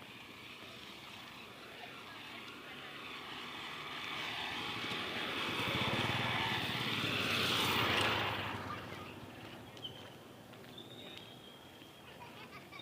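A motor vehicle's engine passing along the road: it grows steadily louder, is loudest about eight seconds in, then fades quickly.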